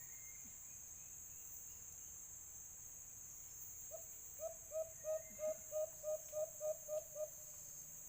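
White-eared brown dove calling: a run of about ten short, low hoots at roughly three a second, starting about four seconds in and stopping a second before the end. A steady high insect drone runs underneath.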